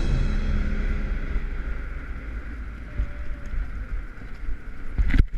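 Steady low rumble with wind noise on the microphone as the soundtrack music fades out in the first second or so; a few sharp knocks near the end.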